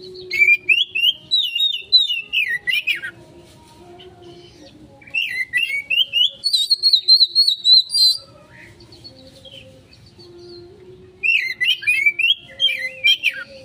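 Oriental magpie-robin (kacer) singing in the fast, stuttering 'konslet' style: three bursts of rapid jumping chatter and whistled notes with short pauses between.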